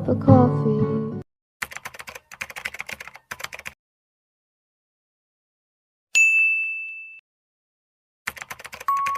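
Rapid keyboard typing clicks for about two seconds, then after a pause a single high ding that rings and fades over about a second; a short burst of typing comes back near the end.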